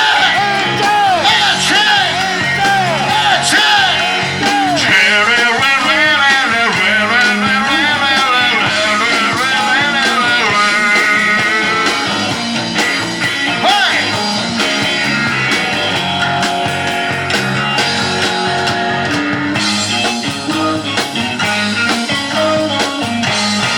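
A rock band playing live: a lead line of guitar or voice with repeatedly bending, wavering notes over the full band.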